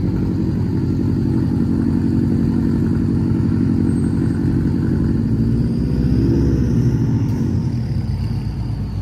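Car engine running loud and low, with a brief rise and fall in pitch about six to seven seconds in.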